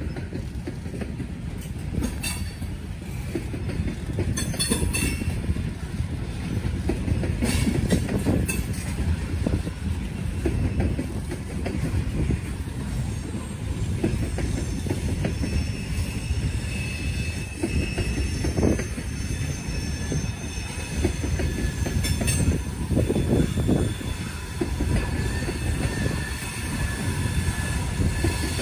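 Freight cars of a grain train rolling past: a steady low rumble of steel wheels on rail, broken by sharp clicks over rail joints, with a faint high wheel squeal in the second half.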